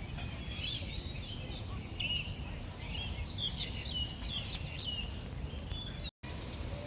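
Small birds chirping and calling in many short, high notes over a steady low rumble of background noise. The sound drops out for a moment near the end.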